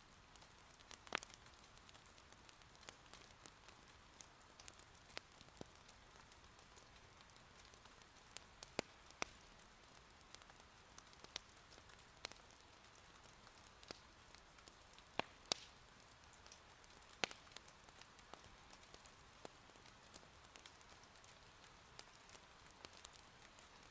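Faint steady patter of gentle rain, with irregular sharp pops and crackles of firewood burning in an irori hearth, a few of them louder, two close together about fifteen seconds in.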